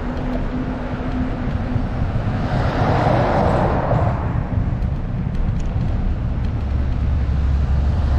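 A car passes on the road, its whoosh swelling and fading about three seconds in, over a steady low rumble; another vehicle starts to approach near the end.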